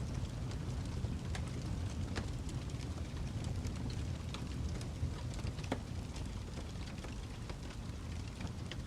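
Wood fire crackling: a steady low rumble with irregular sharp pops and crackles.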